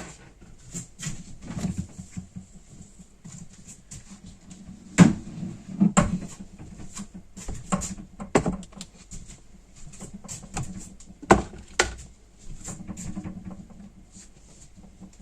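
Irregular knocks and clicks in a small room, several of them sharp and loud: one about five seconds in, one about six seconds in, and two close together about eleven seconds in.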